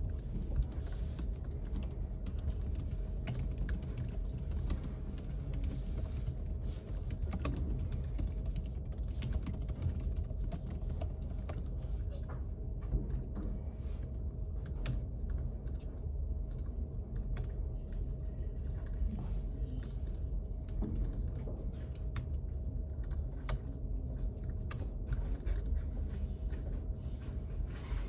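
Typing on a computer keyboard: irregular runs of key clicks over a steady low hum, with a faint steady tone.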